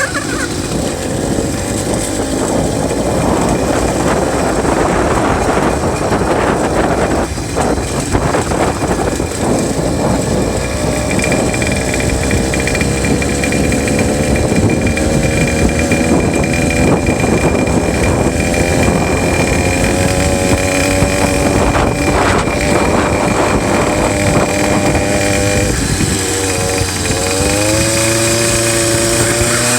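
66cc two-stroke bicycle engine kit running under throttle while riding. Its pitch climbs slowly and steadily as the bike gathers speed, then drops and wavers over the last few seconds as the throttle is eased and opened again. A steady noisy haze runs underneath.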